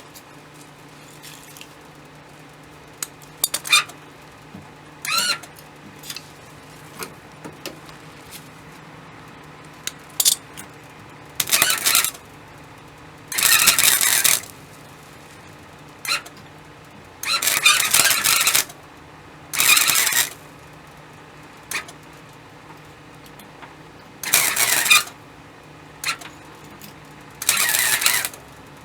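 A welder laying a series of short tack and stitch welds on thin car-body sheet metal: about a dozen crackling, sizzling bursts, each lasting from a split second to about a second and a half, with short pauses between them. A faint steady low hum runs underneath.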